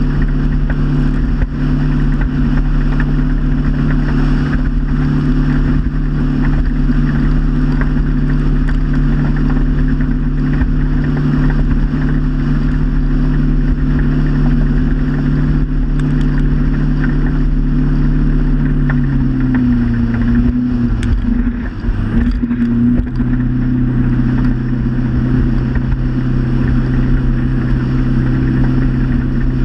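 Motorboat engine running at a steady speed, then slowing about two-thirds of the way through; its pitch slides down and settles at a lower steady drone.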